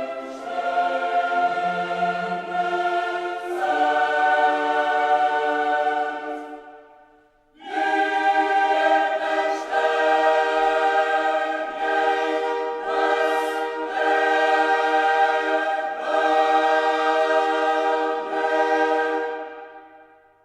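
Background music: a choir singing long held chords in two phrases, each fading out, the first around seven seconds in and the second near the end.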